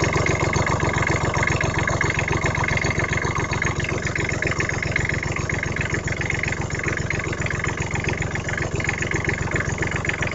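Rebuilt small diesel engine running steadily with an even, rapid firing rhythm, shortly after a cold start.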